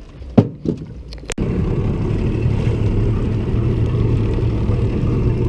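A few faint knocks, then after an abrupt cut the steady low rumble of a 30 hp Yamaha two-stroke outboard motor running under way.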